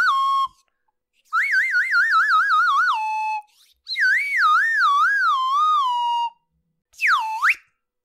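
Cartoon-style warbling whistle sound effect: a pure tone that wobbles up and down while stepping lower in pitch, repeated in phrases of two to three seconds. Near the end comes a quick swoop down and back up.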